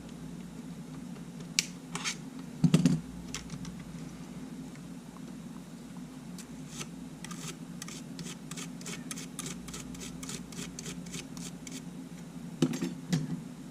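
Small hand tools and camera parts handled on a workbench: scattered light clicks, a run of quick light ticks in the middle, and a few louder knocks as parts or tools are set down, over a steady low hum.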